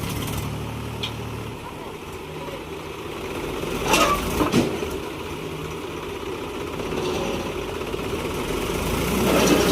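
Tractor diesel engine running steadily, with a short burst of louder noise about four seconds in.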